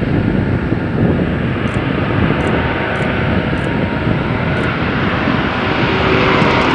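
Aircraft engines running with a loud, steady rumble, growing a little louder and brighter near the end.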